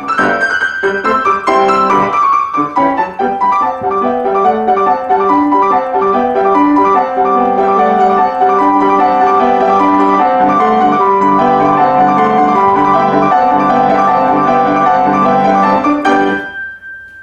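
Piano music playing a busy run of notes, fading out near the end.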